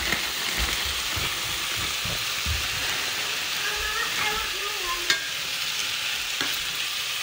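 Frozen mixed vegetables sizzling steadily in a hot stainless steel frying pan as they are tipped in from the bag and stirred with a spoon.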